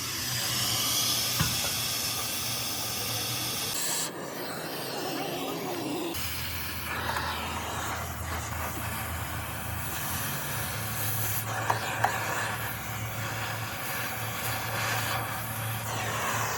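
A steady hiss over a low, steady machine hum, changing abruptly about four and about six seconds in, with a couple of short clicks about twelve seconds in.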